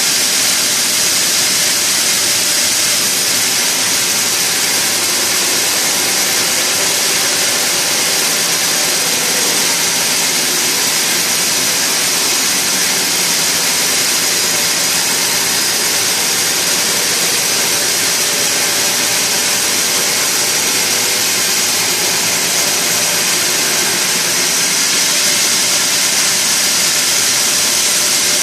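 Sawmill machinery running steadily: a loud, even, hiss-like noise with a faint hum underneath, holding the same without any rise or fall.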